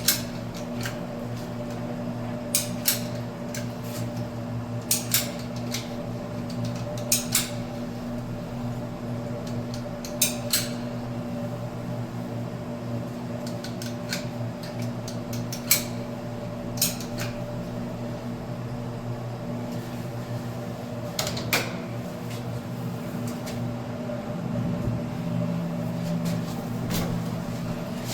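Irregular sharp clicks and knocks of hard objects being handled and set down, about a dozen of them, over a steady low hum.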